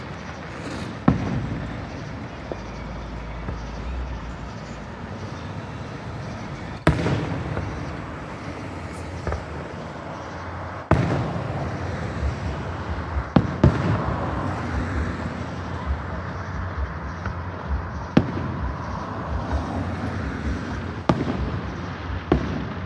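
Fireworks display: sharp bangs of shells bursting every few seconds, about eight in all, some ringing out after the blast, with two close together about midway, over a steady background noise.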